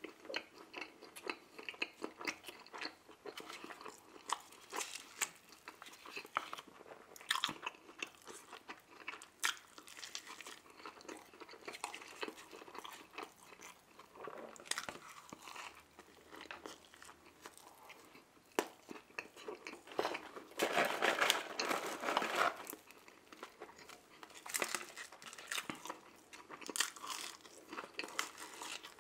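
Close-miked chewing and biting of a fried chicken sandwich: wet mouth sounds with many small crunches and clicks, and a louder stretch of about two seconds some twenty seconds in.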